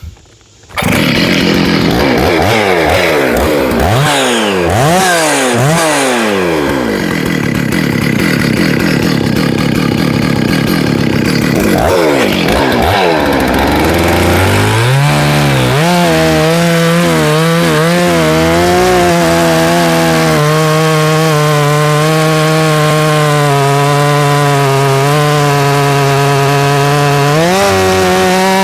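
Stihl 066 Magnum, a 91.6cc two-stroke professional chainsaw, starts about a second in and is blipped up and down with quick revs. From about halfway it holds at a steady pitch, running under load as it saws through wood, and its pitch rises briefly near the end.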